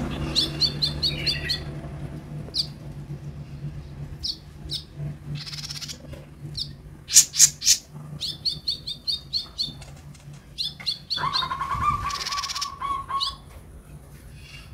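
Kolibri ninja sunbird chirping: sharp high chips and quick rattling runs of notes, with a steady low hum underneath. About eleven seconds in, a lower held whistle sounds for about two seconds.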